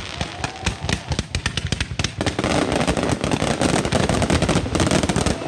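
Rapid, dense string of firecracker bangs from a mascletà, many reports a second running into one another over a deep rumble.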